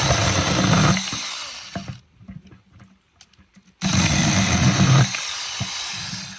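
Small handheld chainsaw running and cutting wood in two bursts of about two seconds each. Between the bursts are a short pause and a few small knocks.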